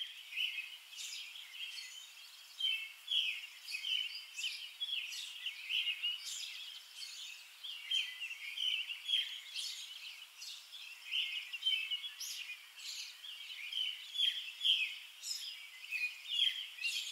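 Small birds chirping, with quick, high-pitched calls coming several a second.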